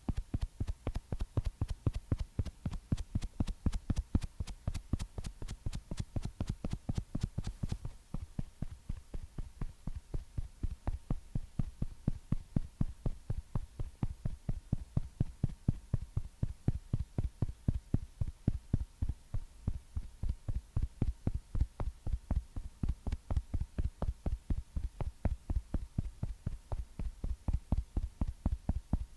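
Rapid, even soft patting close to the microphone, several pats a second, low and thudding; the pats are crisper for the first several seconds and turn duller after that.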